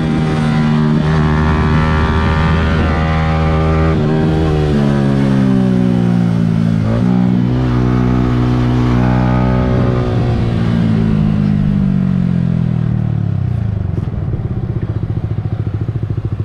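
Yamaha R15 V3's single-cylinder engine heard from a camera on the bike, running at high revs with dips in pitch around four and seven seconds in, then falling steadily as the bike slows and settling into a pulsing idle near the end.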